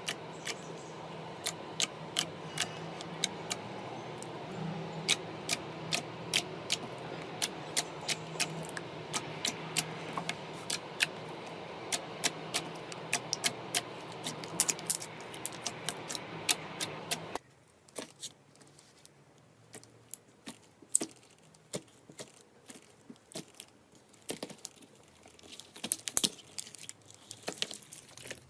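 Slime being handled, giving a quick run of small sharp clicks and pops over a steady hum. About two-thirds of the way through the hum cuts off suddenly, and the clicks turn sparser and fainter, with a denser crackle of them near the end.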